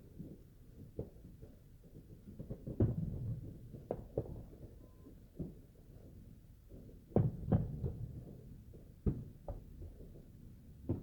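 Fireworks going off at a distance: irregular muffled booms and pops, each trailing off in a low rumble, the loudest about three seconds in and a burst of several around seven to eight seconds in.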